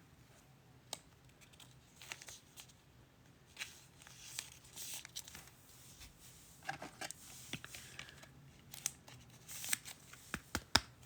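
Faint crinkling and rustling of trading-card packaging being handled and torn, with scattered light clicks and taps.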